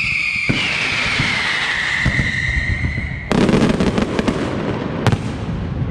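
Aerial fireworks display: a whistling firework sounds, falling slowly in pitch for about three seconds. It gives way suddenly to a dense burst of crackling reports, with one sharper bang near the end.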